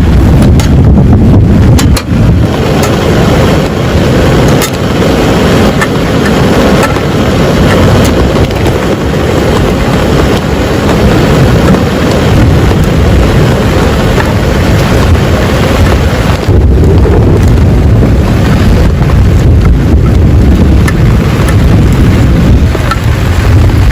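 Heavy rain falling hard and steadily: a deep, even rush with scattered sharp drop hits.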